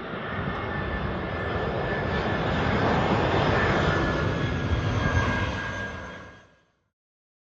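Airliner engines running on or near the apron: a steady engine noise with a faint whine that grows louder over the first few seconds, then fades out about six seconds in.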